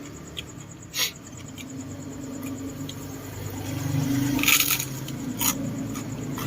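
Balut eating sounds: a sharp click about a second in, then a short scraping crackle a little past the middle and another click soon after, small hard contacts of eggshell and utensils.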